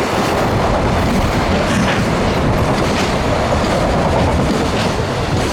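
Freight train wagons rolling past at speed: a steady loud rumble with the wheels clacking over the rail joints.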